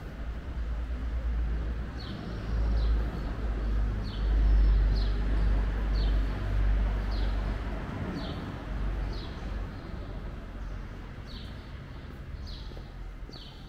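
A small bird calling over and over with short, high, downward-sliding chirps, about one a second and sometimes in pairs, over a low rumble that swells and fades, loudest in the middle.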